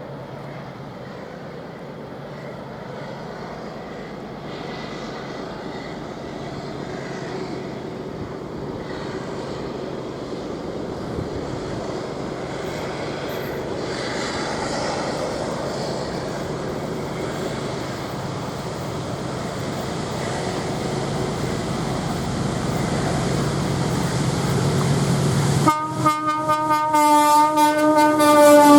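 Container freight train approaching, its rumble growing steadily louder. Near the end the locomotive's horn sounds, several short pulsing blasts running into a longer held note.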